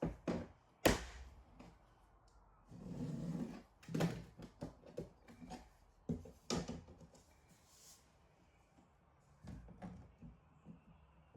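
Floor planks being laid and knocked into place: a string of sharp knocks and thuds, the loudest about a second in, with a longer scraping rub of a plank about three seconds in.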